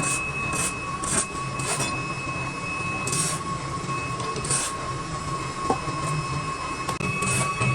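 Workshop machinery running steadily with a high-pitched whine and a low hum, broken by short hissing scrapes every half second to a second.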